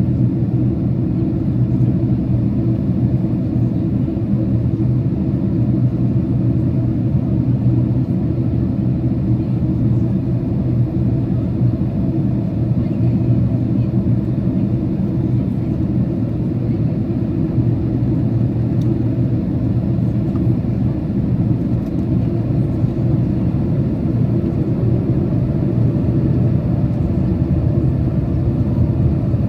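Steady low rumble of a Boeing 767's engines and airflow heard inside the passenger cabin during the approach to landing.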